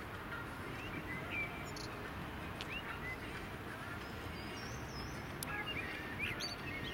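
Birds chirping: many short, high calls and quick rising and falling notes scattered throughout, over steady low outdoor background noise.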